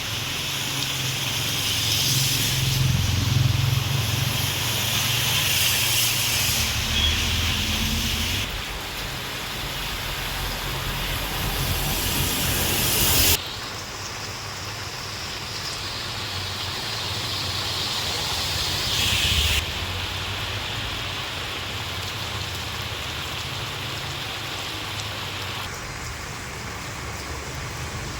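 Heavy rain and running water hissing steadily, with a low engine hum in places. The sound jumps abruptly at several cuts, about 8, 13 and 20 seconds in.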